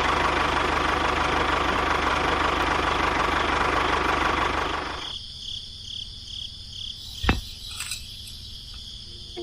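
Small engine running steadily, then cutting off suddenly about five seconds in. After it stops, a high chirp repeats about twice a second, and a single sharp knock comes near the end.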